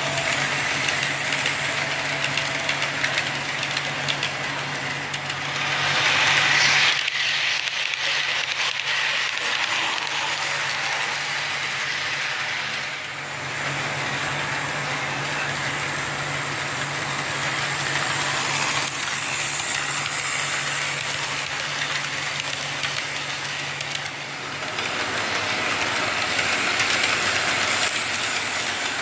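Train running, a steady rattle and rumble with a low hum that stops about 24 seconds in. Louder hissing swells come at about 6 and 20 seconds.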